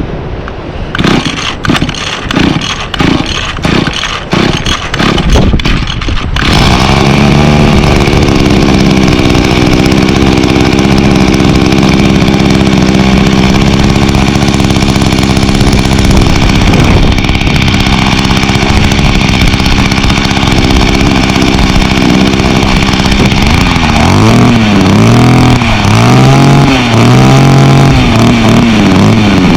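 Mantis mini tiller's 21.2cc two-stroke engine being pull-started: a few seconds of rhythmic strokes, then it catches about six seconds in and runs steadily. Near the end it is revved up and down about five times.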